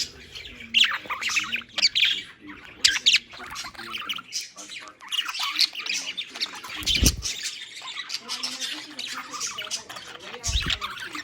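Budgerigars chattering and squawking in a dense run of short, rapid calls. Two brief low thumps come through, about seven seconds in and again near the end.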